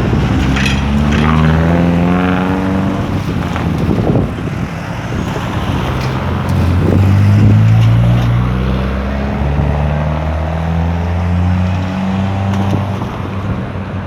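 Street traffic: motor vehicle engines accelerating past, one rising in pitch just after the start, then another engine louder from about six seconds in, over steady road noise.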